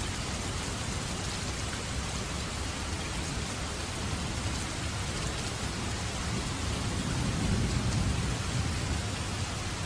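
Steady heavy rain falling, with a low rumble of thunder swelling about seven seconds in and easing off before the end.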